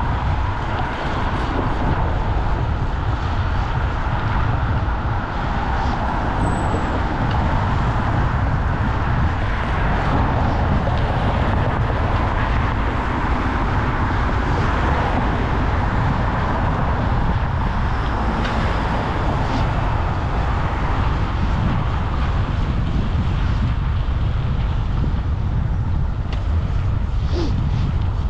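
Steady low wind rumble on a GoPro action camera's microphone while cycling, with road traffic noise from passing cars.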